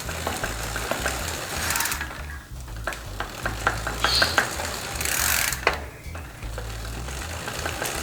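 Worn bicycle freewheel on a rear hub turned by hand under pressure, giving rough, uneven ticking ('tek tek tek') with a grinding rumble. This is a sign of a fault in the freewheel's or hub's unsealed loose-ball bearings, which the owner has yet to pin down.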